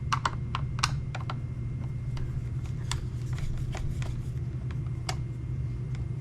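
Irregular light clicks and ticks of a Phillips screwdriver working the screws out of the plastic top panel of a chainsaw housing, over a steady low hum.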